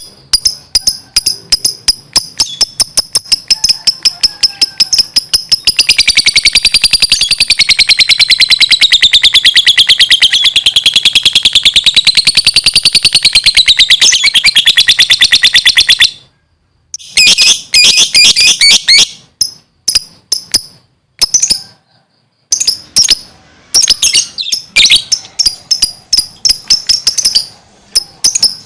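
Lovebird in full song, chirping loudly with sharp, high chirps in quick succession. About six seconds in, the chirps run together into one long, fast trill that wavers in pitch for about ten seconds. The trill stops suddenly, and after a short gap there are bursts of chirps with brief pauses between them.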